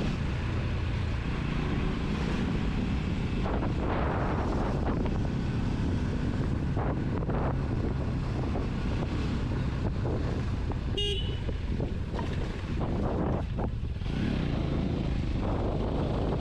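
Motorcycle running along the road, its engine and the wind noise a steady rumble, with one short horn beep about eleven seconds in.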